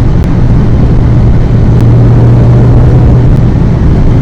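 VW Golf GTI Mk1's inline-four engine running hard under load, heard from inside the cabin, its note holding a fairly steady pitch over loud road and tyre noise.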